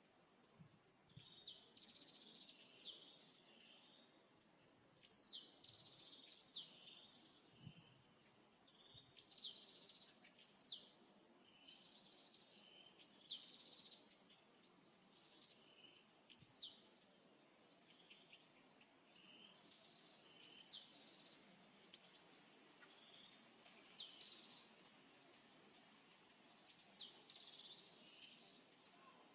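A bird calling faintly and repeatedly: short hooked notes, often in pairs, about every three to four seconds, over quiet outdoor background noise.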